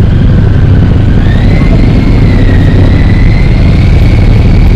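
Motorcycle engine running on the move, with a loud low rumble and a thin whine that rises in pitch about a second in and then holds steady.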